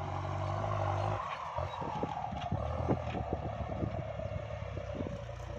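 Kubota MU5702 tractor's diesel engine running under load while plowing, with many short knocks and rattles as the tractor jolts over combine-harvester ruts. The engine hum dips about a second in and picks up again a little later.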